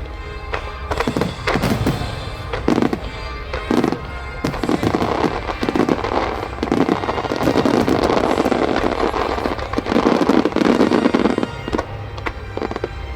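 Fireworks shells bursting in quick succession, with two long stretches of dense crackling volleys, one in the middle and one near the end, over music.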